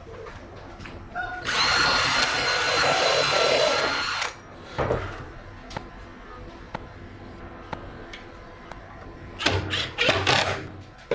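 Homemade power-tool-driven planer running for about three seconds with a steady high whine over a rasping noise, then a few sharp knocks; two short bursts of the tool near the end.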